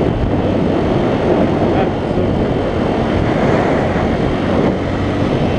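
Heavy wind rushing over the camera microphone on a moving dual-sport motorcycle, with the engine running underneath; the noise is steady and loud.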